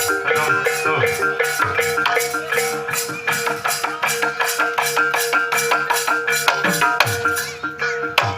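Instrumental Banyumasan gamelan music for tayub: fast, dense struck-metal notes ring over held tones, with drum strokes that drop in pitch.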